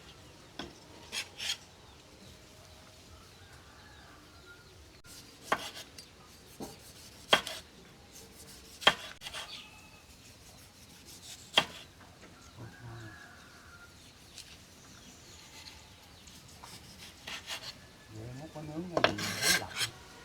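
Hard objects being rubbed and scraped, with scattered sharp clicks and knocks and a longer spell of scraping near the end.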